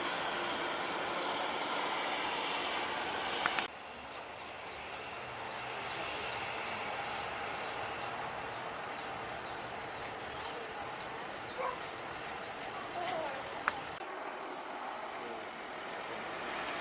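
Steady high-pitched insect drone over a background noise haze. The haze drops abruptly about three and a half seconds in and again near the end.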